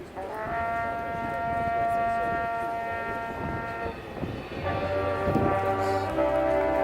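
Marching band brass holding a sustained chord, then changing to a new, fuller chord with low brass coming in about four and a half seconds in.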